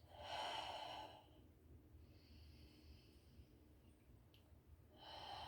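A woman's deep yoga breath: a sigh-like breath lasting about a second, then quiet, and another deep breath beginning near the end.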